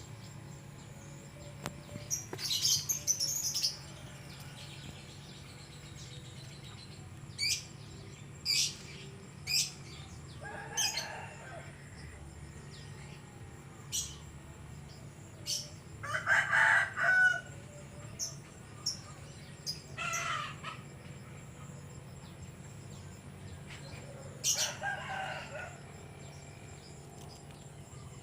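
Birds chirping: short, sharp, high calls scattered irregularly through the stretch, with a few longer, lower calls from chickens, the loudest a little past halfway.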